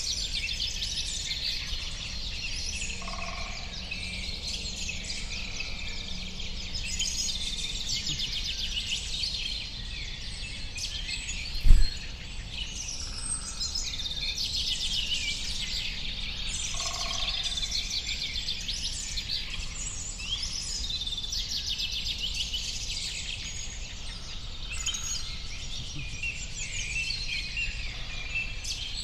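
A chorus of many small birds chirping and twittering, overlapping without a break, over a steady low background rumble. A single sudden low thump comes about twelve seconds in.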